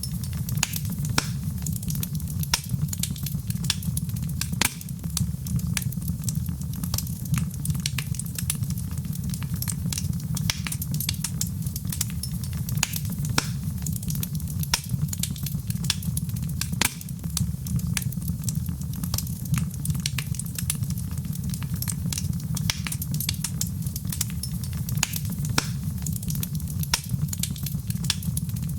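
Wood fire burning in a fireplace: a steady low rumble of flames with many sharp crackles and pops scattered irregularly throughout.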